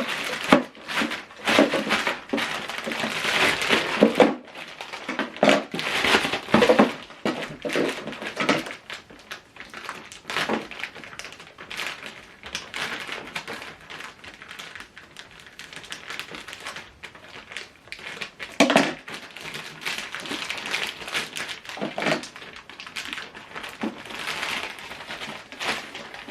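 Unboxing handling noise: packaging rustling and crinkling with irregular knocks and thuds as the soundbar's parts are taken out, busier at first and again near the end.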